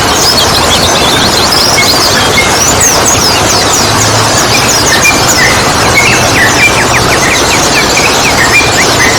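Many rapid high chirps and twittering songbird calls over a loud, steady rushing noise; in the second half a faster run of short, repeated notes sits a little lower in pitch.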